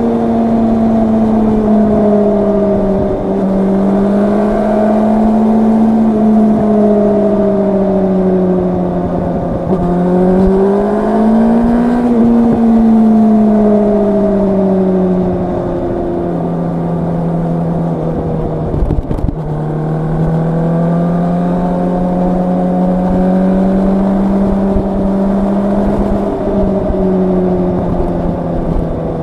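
Yamaha R1's crossplane inline-four engine on the move at steady mid revs, its exhaust note rising and falling gently with the throttle, with a short drop in pitch three times as it changes up a gear.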